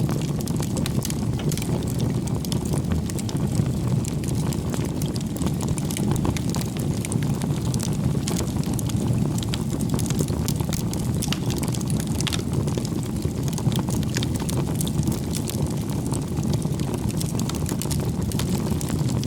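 Campfire burning steadily: a low, continuous rush of flames with frequent small crackles and pops from the burning firewood.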